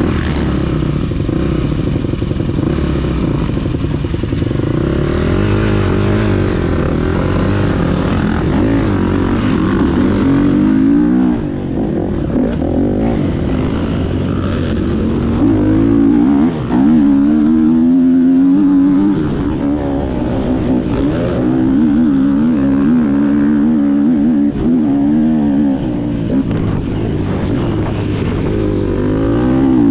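Motocross motorcycle engine revving hard on the track, its pitch rising and falling over and over as the throttle is opened and closed through the gears.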